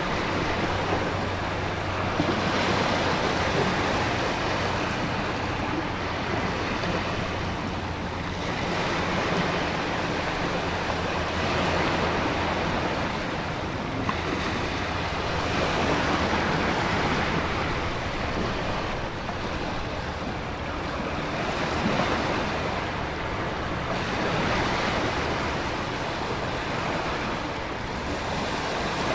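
Storm ambience: ocean surf swelling and breaking every few seconds over a steady hiss of heavy rain and wind.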